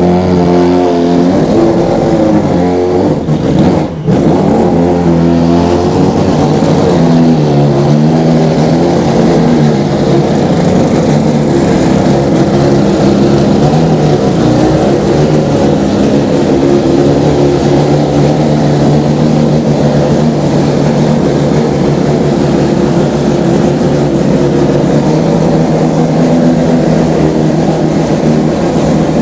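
1400 hp four-rotor rotary engine running loud after a cold start, its pitch rising and falling with the revs, with a brief dip about four seconds in before it settles into steadier running.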